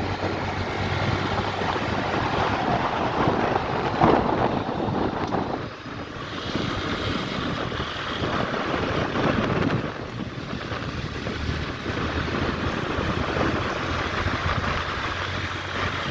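Motorcycle running on the move, with heavy wind buffeting the microphone; the sound dips and shifts about six seconds in.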